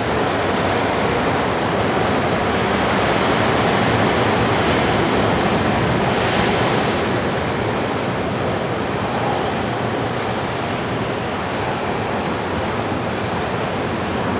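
Ocean surf washing on the shore: a steady rush of waves that swells a little about halfway through, with a brighter hiss from one breaking wave.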